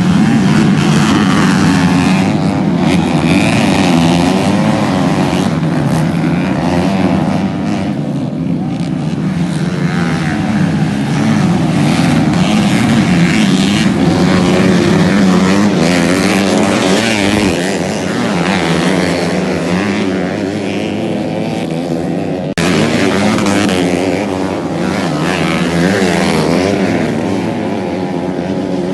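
Motocross bikes racing on a dirt track, their engines revving up and down as they accelerate and ease off, several engine notes overlapping.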